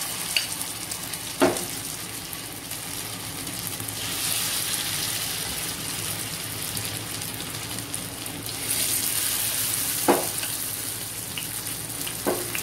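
Marinated chicken pieces frying in hot mustard oil in a nonstick pan: a steady sizzle that swells about four seconds in and again near nine seconds, as more pieces go into the oil. A few short knocks stand out, two early on and two near the end.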